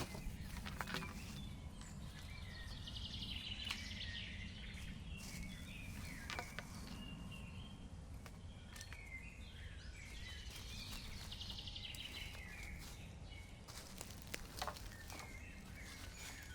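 Outdoor woodland ambience: birds chirping and chattering off and on over a steady low rumble. Now and then there are short clicks or taps.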